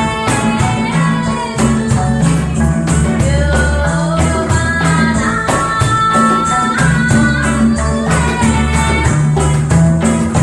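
Live reggae band playing: a throbbing bass line, a shaker or tambourine marking an even beat, and a gliding melody over plucked strings, sanshin among them.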